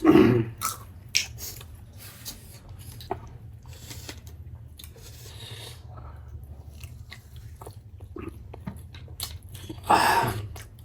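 A person chewing and biting food close to the microphone, with scattered short clicks.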